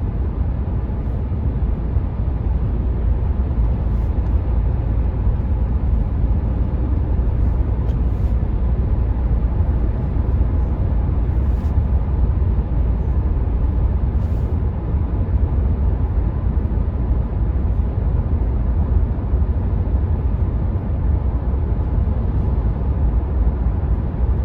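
Steady low road-and-tyre rumble with wind noise inside the cabin of a 2019 Renault Mégane IV 1.5 dCi cruising on the motorway.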